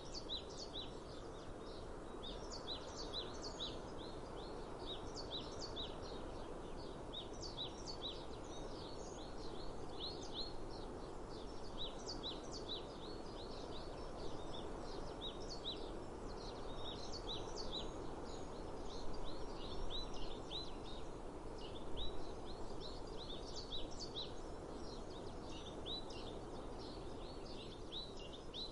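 Many small birds chirping constantly in short, high notes over a steady outdoor hiss of breeze, with a couple of brief louder bumps in the last third.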